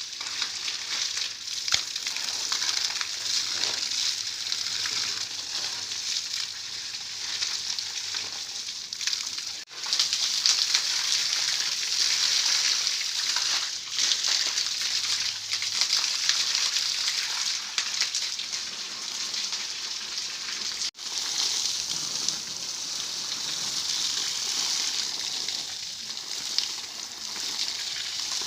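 Water spraying onto new concrete during curing, a steady hiss that breaks off abruptly twice.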